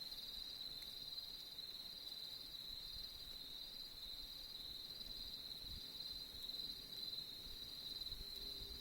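Crickets trilling in a steady, unbroken high-pitched chorus, with a fainter pulsing note just above it.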